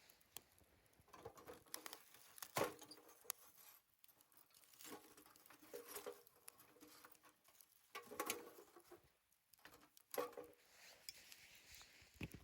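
Wood fire crackling in a fire stand: scattered small pops and soft crackles, with a sharper pop about two and a half seconds in.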